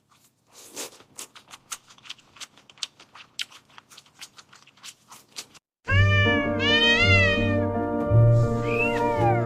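Faint scattered clicks and taps for about six seconds. Then background music starts, and a cat meows several times over it.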